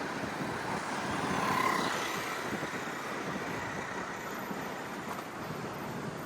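Road traffic noise, with a vehicle passing that grows louder to a peak about a second and a half in, carrying a faint whine, then fades back into the steady traffic.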